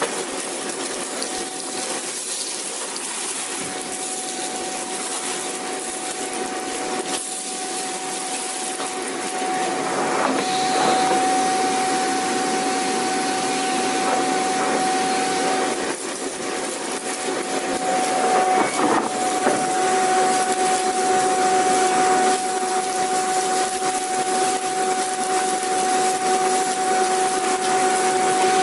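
Vacuum cleaner running, a steady hiss with a high whine. It gets louder about ten seconds in and again near twenty seconds, where a second, lower whine joins.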